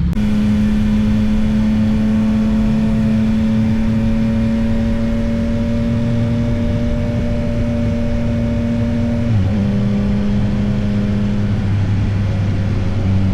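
2024 Yamaha XSR900's inline-three engine running steadily under way, its pitch creeping slowly upward. There is a short dip in pitch about nine and a half seconds in, after which the engine runs at a lower note.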